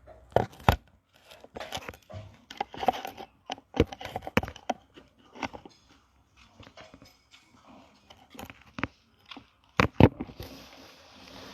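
Irregular handling noises: sharp knocks, clatters and rustles, the loudest about half a second in and around ten seconds in. Near the end a steady rush of water begins.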